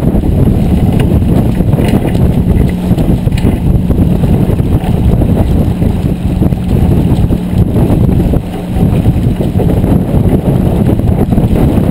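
Steady loud wind rumble on the microphone aboard a J24 sailboat under sail, dipping briefly about eight seconds in.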